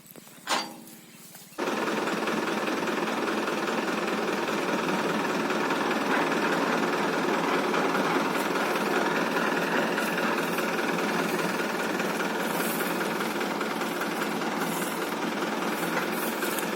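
Tractor engine running steadily, a dense mechanical clatter that cuts in suddenly about a second and a half in. A single short loud sound comes just before it.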